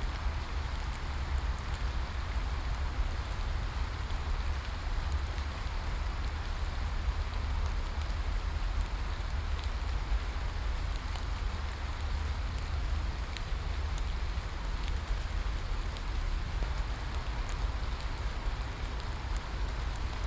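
Steady rain falling, an even hiss with scattered small drop ticks, over a constant low rumble.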